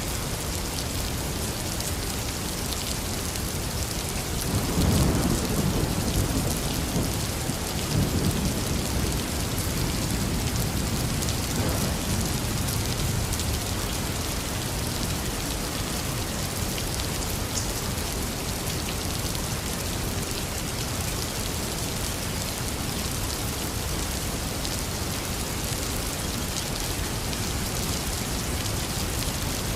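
Heavy rain falling steadily, with thunder rumbling about five seconds in and again around eight seconds, then fading back into the rain.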